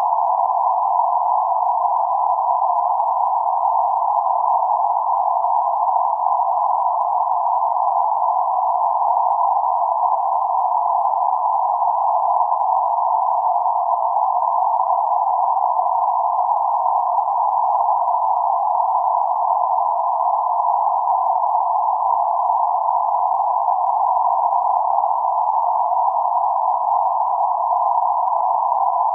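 Steady, unchanging band-limited noise centred around 848 Hz, a synthetic hiss confined to roughly 550 Hz to 1.4 kHz with nothing above or below, heard as a soft tone-like rush.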